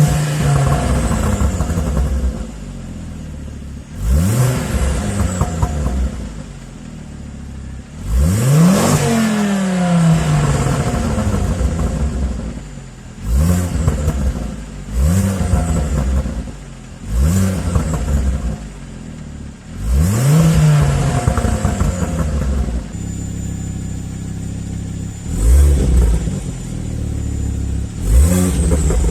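Ford Focus ST engine through an aftermarket exhaust, revved in about nine quick blips that rise and fall back to idle between them, the longest and highest about a third of the way in.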